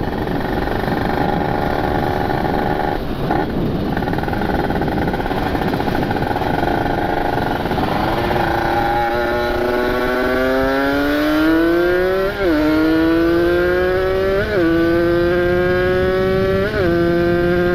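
Ported Kawasaki Ninja RR two-stroke engine running at speed under a steady rush of wind noise. About halfway through, the engine note drops lower and then climbs steadily, broken by three brief dips in pitch.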